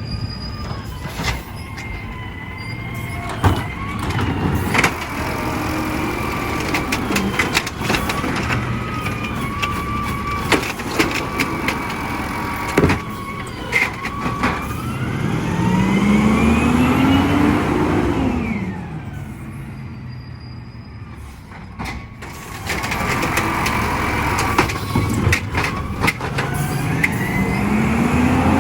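Garbage truck engine revving up slowly and dropping back twice, with a steady whining tone and scattered sharp clanks and knocks.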